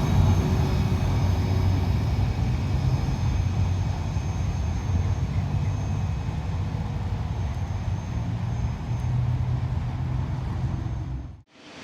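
Diesel freight train running by: a steady low engine drone that eases off a little, then cuts off abruptly near the end.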